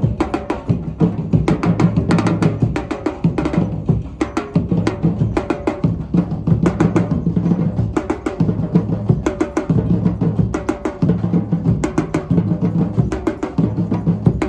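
Live music with fast, dense hand-percussion strikes over a low held tone that comes and goes every second or two.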